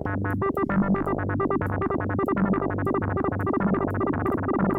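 Boss SY-200 guitar synthesizer pedal playing a sequencer (SEQ) patch from a held electric-guitar note: a fast, even run of short synth notes stepping up and down in pitch in a repeating pattern.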